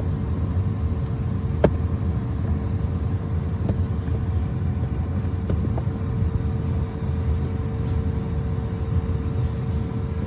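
Steady low rumble with a constant hum, broken by a few light clicks, the clearest about a second and a half in, as plastic push clips are popped out of a car's interior trim panel.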